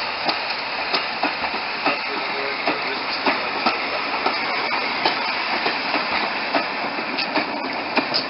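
Train running along the track: a steady rumble and hiss with the wheels clicking over rail joints, about two clicks a second.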